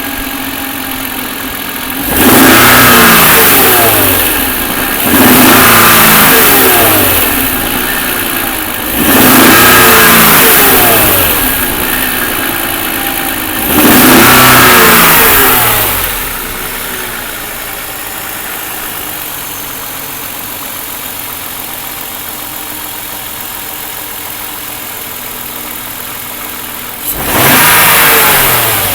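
BMW M52 straight-six engine idling and blipped up in revs five times, each rev rising and falling back to idle, with a long stretch of steady idle before the last. It has a knock that the owner traces to cylinder 6.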